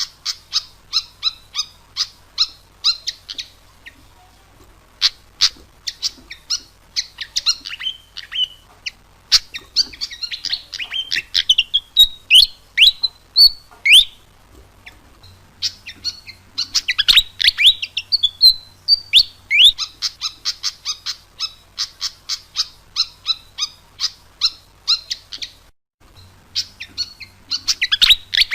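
Pied fantail (burung kipasan) singing: fast runs of sharp chirps mixed with short sweeping whistles, in phrases broken by brief pauses.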